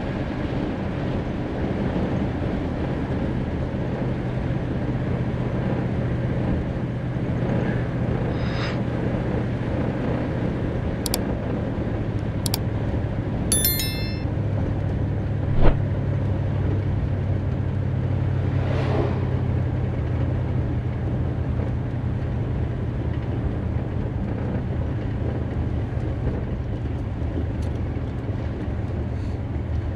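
1957 Chevrolet 210 driving at a steady pace: a continuous low engine drone with road and wind noise. A few sharp clicks come about halfway through, followed shortly by a single loud knock.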